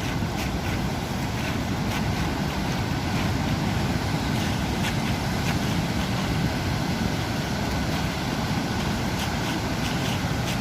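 Steady rumbling noise of sea and wind at the shore, with wind buffeting the microphone.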